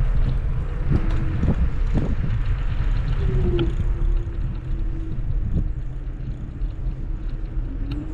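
Kugoo G2 Max electric scooter riding: a steady low rumble of wind and tyres on the microphone, with a thin motor whine that rises slightly in pitch about three seconds in and again near the end. A few knocks in the first two seconds.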